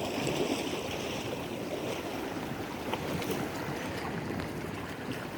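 A high, rough sea washing against the shore, making a steady rushing, with some wind on the microphone.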